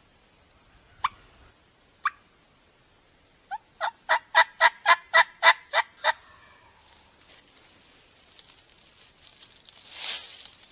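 Turkey calling: two single clucks, then a run of about ten yelps at roughly four a second. A scuffling rustle builds near the end.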